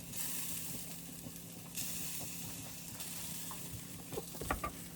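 Seasoned chicken sizzling in a pot on the stove: a steady hiss that grows louder about two seconds in, with a few short clicks near the end.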